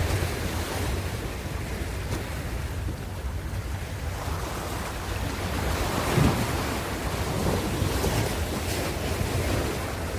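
Ocean waves breaking and washing in, a continuous surging hiss that swells louder about halfway through, over a steady low rumble of wind on the microphone.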